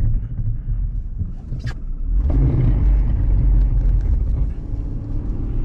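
Car driving on a wet, slushy road: a steady low engine and road rumble that grows louder about two seconds in.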